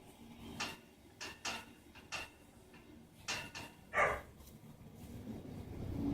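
A mother dog and her six-week-old puppies at play, giving short, sharp yips and barks, about seven of them. The loudest comes about four seconds in.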